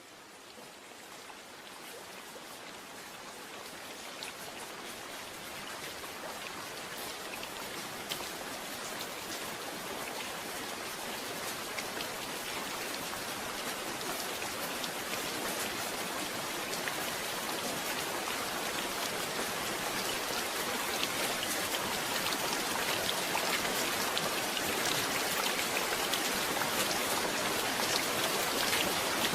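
Steady rain falling, with scattered individual drops standing out. It fades in, growing steadily louder through the whole stretch.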